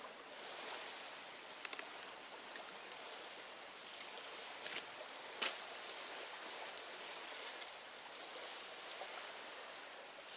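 Steady rush of running water, faint, with a few small clicks and one sharper tap about five and a half seconds in.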